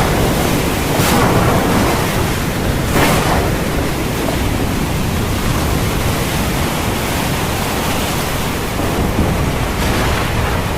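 Heavy rain falling: a steady, loud hiss, with two brief louder surges in the first few seconds.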